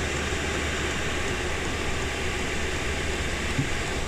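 Chinese diesel air heater running at full output: its blower fan rushing air through the unit with a steady whoosh over a low hum. It is running and putting out heat normally again, its no-heat, no-start fault cured.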